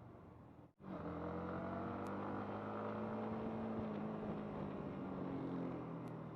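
Yamaha MT-15's single-cylinder engine running under way, its pitch easing slowly down. The sound drops out for an instant just before a second in.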